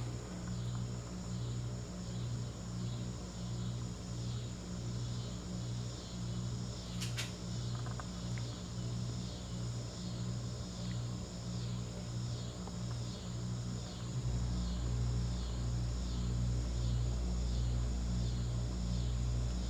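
CEC hugger ceiling fan running, its motor hum pulsing in a steady rhythm about one and a half times a second, with faint high chirps repeating in step. A single click sounds about a third of the way in, and a deeper hum grows louder about two-thirds of the way in.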